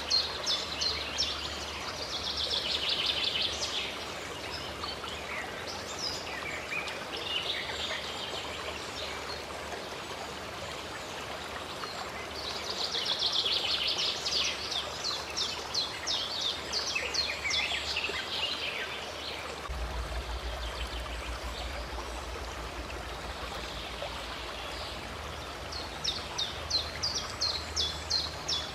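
Running stream with birds singing over it: a steady wash of flowing water, broken by bursts of rapid, repeated high notes several times over.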